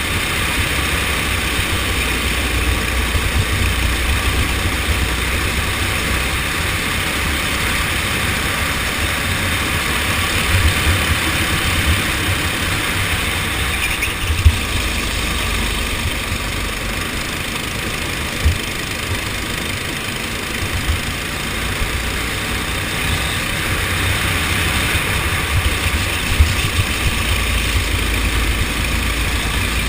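Go-kart engine running steadily, with low rumble and a few brief sharp knocks.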